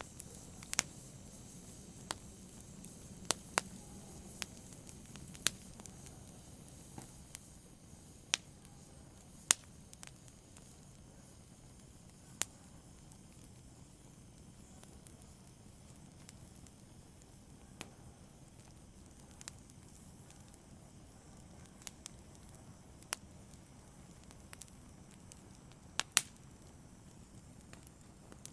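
Wood fire in a fireplace crackling: sharp, irregular pops and snaps over a soft, steady hiss of the flames, with the pops thinning out after the first half.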